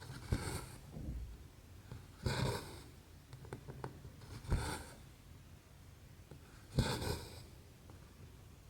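Needle and embroidery thread drawn through cross-stitch fabric, a short swish about every two seconds, each starting with a small tick as the needle pierces the cloth.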